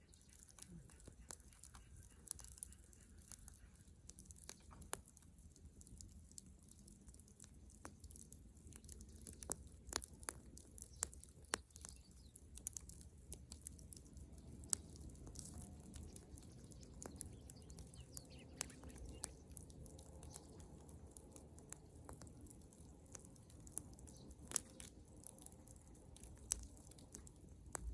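Bonfire of dry dead wood crackling: scattered sharp pops and snaps, irregular and faint, over a low steady rumble.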